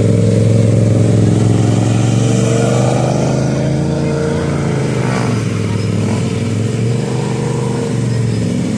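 Small mini bike engines running in a steady drone, their pitch wavering up and down a little as the throttle changes.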